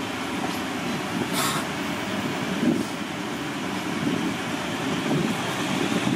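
Passenger train running along the track, heard from an open carriage window: a steady rumble of wheels on rails with a short hiss about a second and a half in.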